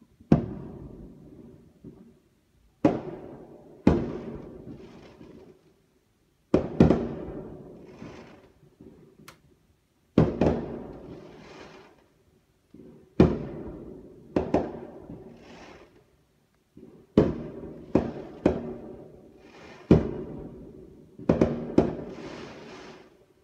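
Aerial firework shells bursting: about a dozen sharp bangs, irregularly spaced, with several coming close together near the end. Each bang trails off in an echo lasting a second or two.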